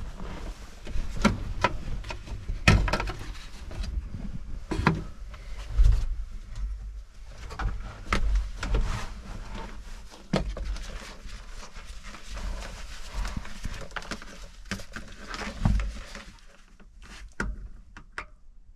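Irregular clicks, knocks and low thuds of hands working around the machine, with no rhythm and no engine running: handling and clatter while getting at the fuses.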